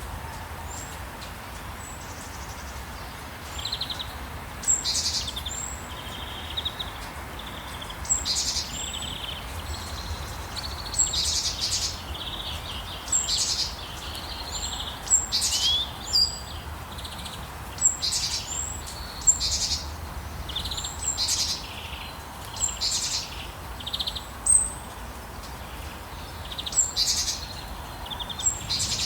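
Songbirds chirping over a steady soft hiss and low rumble, with short sharp high calls about once a second and lower buzzy trills between them.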